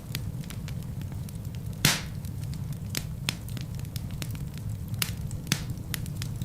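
Wood fire burning in a fireplace: a steady low rumble of flames with scattered sharp crackles from the logs, and one louder pop about two seconds in.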